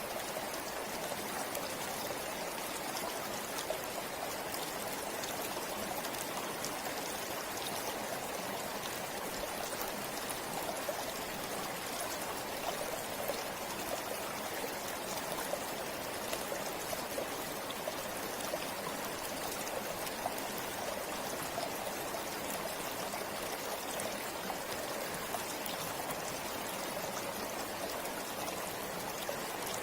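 A forest river flowing steadily over stones: an even rush of water with small splashes and trickles scattered through it.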